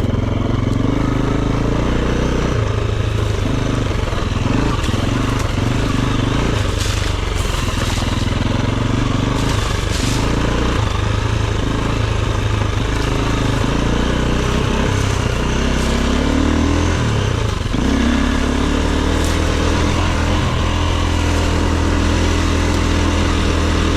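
Dirt bike engine running under varying throttle as it is ridden off-road, its pitch rising and falling, with a few sharp knocks along the way.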